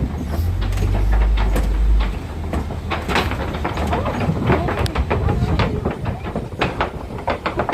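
Loose wooden bridge boards clattering and slapping as a safari truck rolls over them: a quick, uneven run of knocks and rattles. A low engine rumble underneath falls away about two seconds in.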